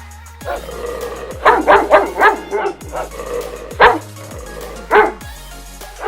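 A dog barking: a quick run of about four barks a second and a half in, then single barks near four and five seconds, over background music.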